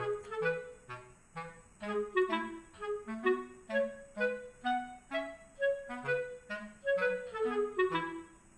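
Background music: a light, bouncy tune of short clarinet-like woodwind notes over a plucked bass line.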